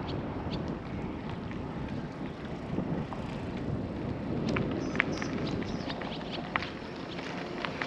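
Bicycle ride noise: a steady rumble of wind and tyres, with a few sharp clicks and ticks from the bike in the second half.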